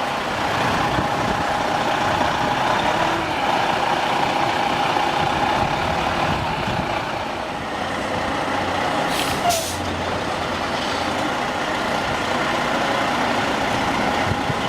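Heavy truck engine running steadily, with two short hisses of air about nine seconds in.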